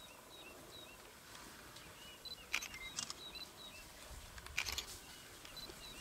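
Faint bush ambience: a bird repeating a short high chirp about twice a second, with a few sharp cracks about halfway through.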